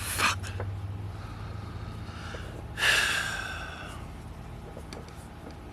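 A man's loud, frustrated sigh or snort about three seconds in, fading over about a second, after a sworn word near the start.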